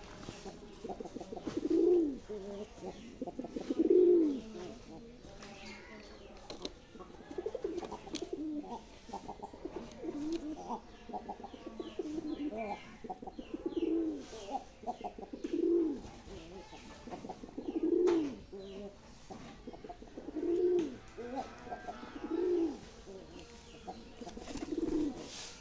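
Domestic pigeon cooing over and over, each low coo rising and falling, about one every two seconds.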